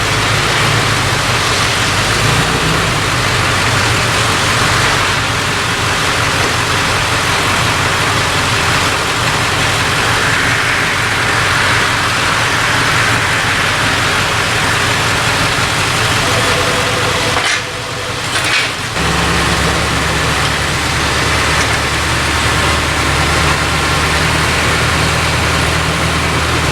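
An engine running steadily, with a brief drop in level about eighteen seconds in, after which its low hum is steadier and stronger.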